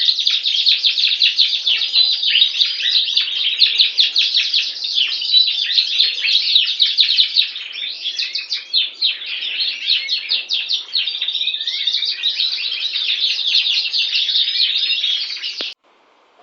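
Canary singing: a long, continuous run of rapid trills and chirps, softer for a moment about halfway through, that stops abruptly near the end.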